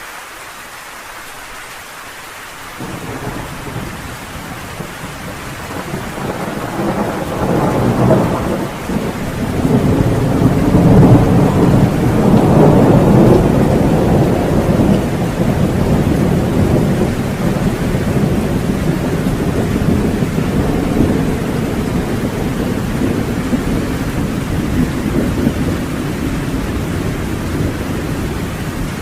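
Steady rain pattering on a cabin porch, with a long roll of thunder that starts a few seconds in. The thunder builds to its loudest rumble about a third of the way through, then slowly fades back under the rain.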